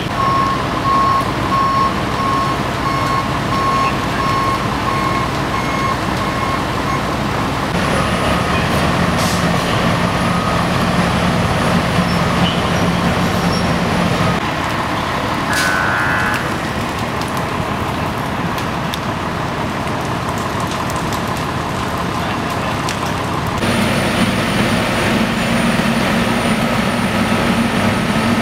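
Heavy fire apparatus diesel engines running steadily. A truck's reversing beeper sounds in repeated beeps during the first seven seconds or so.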